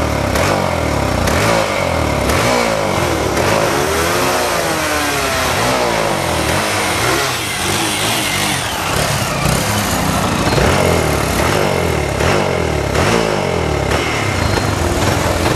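Single-cylinder four-stroke trail motorcycle engine revving up and down again and again, its pitch rising and falling, as the bike is ridden through wheelies.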